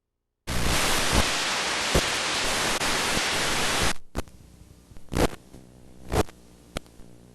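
Loud steady static hiss that starts suddenly about half a second in and cuts off about four seconds in, then a quieter low hum with a few sharp clicks.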